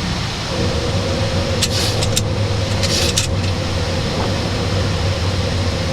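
Steady flight-deck noise of a Boeing 737-800 climbing out just after takeoff: air rushing past the cockpit over a constant low hum from the engines at climb thrust. A faint steady tone joins about half a second in, and a few short hisses come around two and three seconds.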